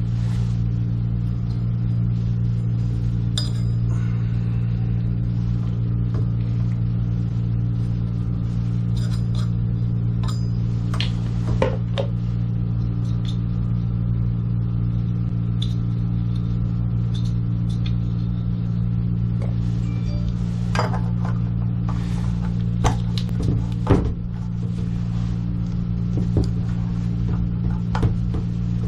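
A steady low hum with scattered clicks and light knocks of pipe fittings and tools being handled, a few sharper knocks in the second half.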